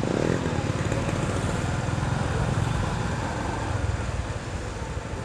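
Motorcycle engine running steadily while riding, with a rapid low pulsing and wind and road noise on the microphone; it eases off slightly near the end.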